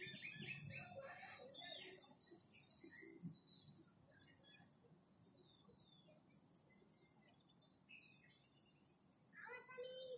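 Faint chirping of small birds: many short, high calls scattered throughout, busiest in the first couple of seconds.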